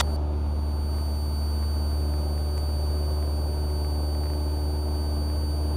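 Steady low drone of a Cessna 172R's four-cylinder Lycoming engine and propeller in the climb, with faint steady high electrical tones above it.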